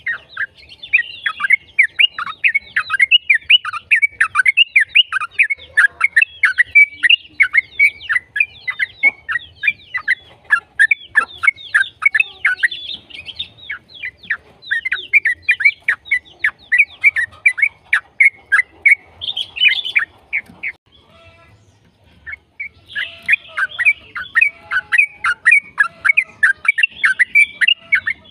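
Yellow-vented bulbul (trucukan) singing a long, rapid run of chattering notes many to the second. It stops briefly about three quarters of the way through, then resumes just as fast.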